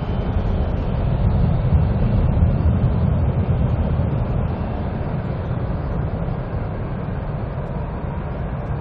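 Jet airliner engines making a loud, low rumble that eases off gradually over the second half.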